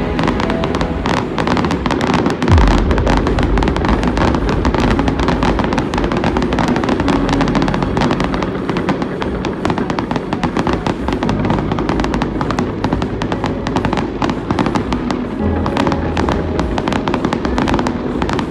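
Aerial fireworks display bursting in quick succession: dense crackling and popping, with a deep boom about two and a half seconds in and another near fifteen seconds. Music plays in the background.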